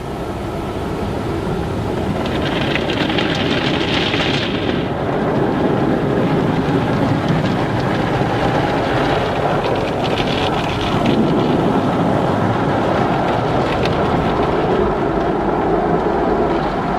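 Automatic car wash running: a steady, dense rumble of water and machinery, with a brief brighter hissing about two to four seconds in.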